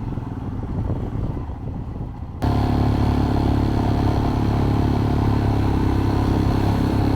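Motorcycle riding sound: a rough, gusty rumble for the first couple of seconds, then an abrupt cut about two and a half seconds in to a louder, steady motorcycle engine drone at an even speed.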